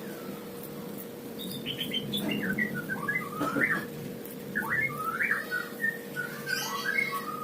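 A small bird chirping in short, quick notes that slide up and down in pitch, starting about a second and a half in, over a faint steady hum.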